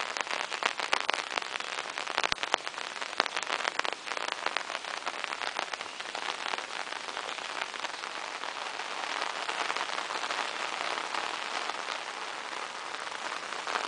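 Steady rain falling, with many close individual drops ticking sharply through the hiss, busiest in the first half.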